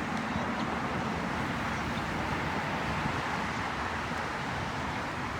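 Steady road traffic noise from vehicles driving past, easing off slightly.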